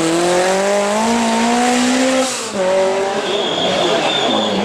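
Lancia 037 Group B rally car's supercharged 2.1-litre four-cylinder engine at high revs, its pitch climbing slowly, then dropping suddenly a little past halfway before it picks up again. A thin high tone sounds over it for about a second near the end.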